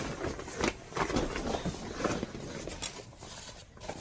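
Rustling and irregular light knocks and clicks of folding chairs being handled and loaded into a car, busier in the first half and quieter near the end.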